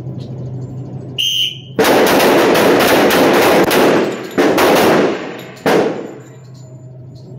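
A short whistle blast from the range officer, then a rapid, overlapping volley of handgun shots from a line of shooters, echoing in the indoor range, with a couple of further shots a few seconds later. The whistle is the signal to fire two rounds each.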